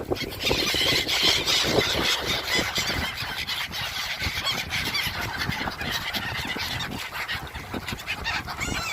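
A large flock of wintering birds calling all at once, a dense chorus of many overlapping high calls, as they crowd in to be fed. The chorus is thickest in the first few seconds and thins a little after that.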